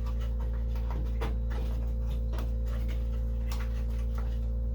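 Scattered light clicks and taps of hands handling the headlight wiring and connector, over a steady low hum.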